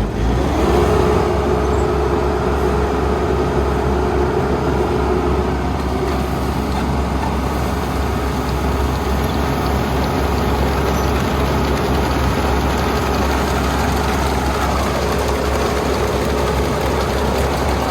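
Kubota ER470 combine harvester running under load, a loud, steady diesel engine and machinery drone. It jumps louder right at the start, and a steady whine rides over it for the first few seconds and again near the end.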